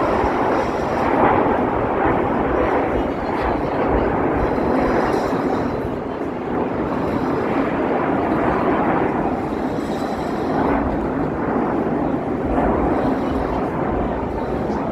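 Jet aircraft flying overhead during an air show: a loud, steady roar that swells and eases slightly.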